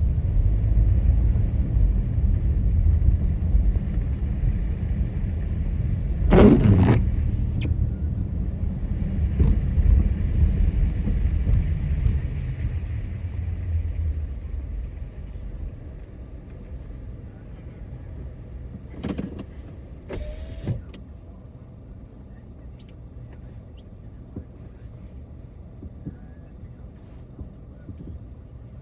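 Car driving on city streets: a low road-and-engine rumble that dies away over the first half as the car slows, leaving a quiet steady hum. A loud knock comes about six seconds in, and two shorter clicks or knocks come later.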